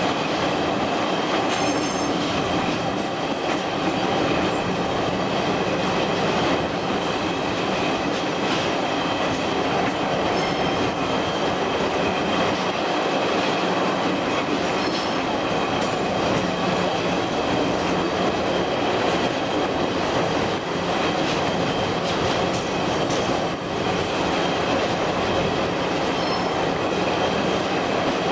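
Diesel-hauled train running steadily, heard through an open window: a continuous rumble of wheels on the rails with light clicking from the track and a faint wheel squeal now and then.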